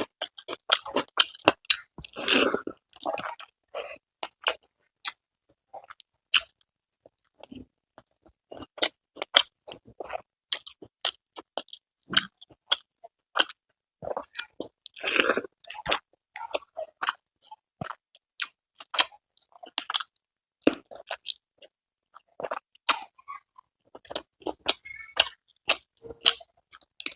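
A person eating close to the microphone: chewing and crunching with wet mouth clicks in an irregular run, busier about two seconds in and again around fifteen seconds.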